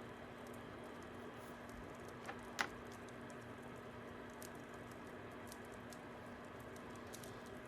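Fire crackling: a steady soft hiss with scattered small snaps and one sharper pop about two and a half seconds in.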